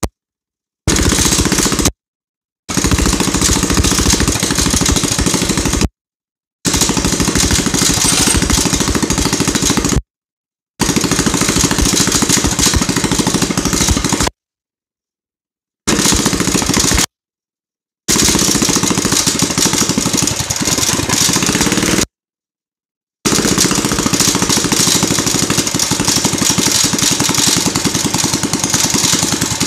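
Predator 212 single-cylinder four-stroke engine on a mini bike, running loud through its exhaust. It comes in several short stretches, each cut off abruptly by dead silence.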